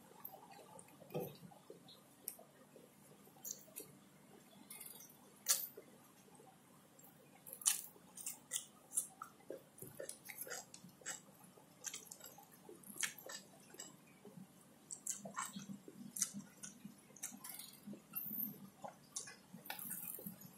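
Faint close-up mouth sounds of a man chewing rice and fried catfish: soft wet chewing with many short, irregular clicks.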